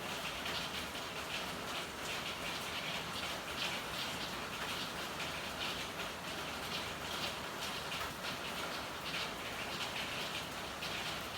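Steady rain falling, with an irregular patter of many small drops ticking over a constant hiss.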